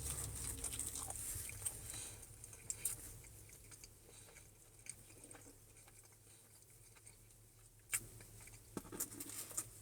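Faint chewing and biting of someone eating pizza close to the microphone, with scattered small clicks and mouth noises. Louder in the first few seconds, then very quiet, with a few sharper clicks near the end.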